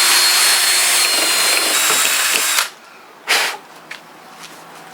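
Electric drill boring into maple wood, running steadily with a motor whine, then stopping abruptly about two and a half seconds in. A short burst of noise follows about a second later.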